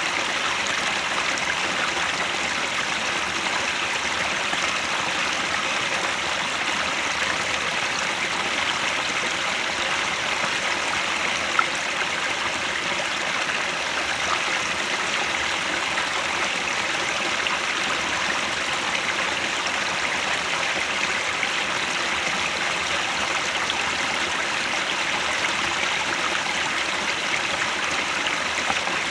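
Headwater mountain stream running steadily, an even, unbroken sound of flowing water, with one brief tick about twelve seconds in.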